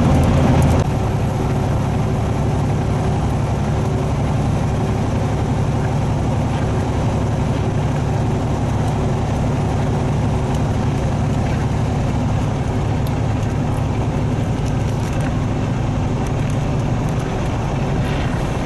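Semi truck's diesel engine and road noise at highway speed, heard from inside the cab: a steady drone with low engine tones that drops a step in level a little under a second in, then runs on evenly.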